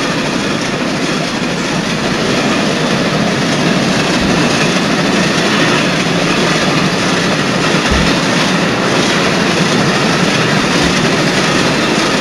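Moving train heard from inside a passenger carriage: a steady running noise with a few brief low thumps.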